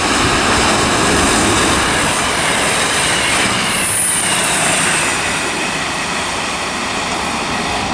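Class 159 and Class 158 diesel multiple units running through the station: steady rumble of wheels on rail, with a thin high wheel squeal that glides in pitch around the middle.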